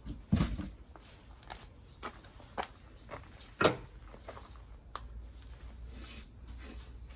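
Tools and small metal engine parts being handled during disassembly of a scooter engine: a string of irregular knocks and clinks, the two loudest about a third of a second in and near the middle.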